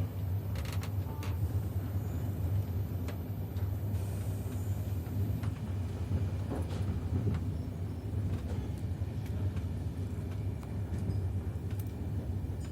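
Doğu Ekspresi passenger train running: a steady low rumble with scattered light clicks.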